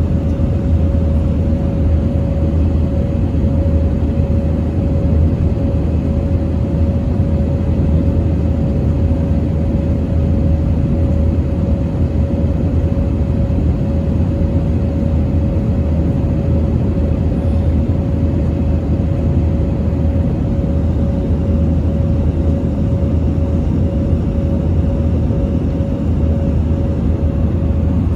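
Steady low rumble of a running vehicle, with a constant faint hum above it.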